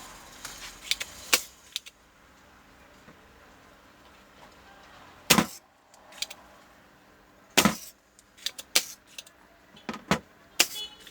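Small hard objects being handled: scattered sharp clicks and metallic clatters, about ten in all, spaced unevenly, the loudest about five and seven and a half seconds in.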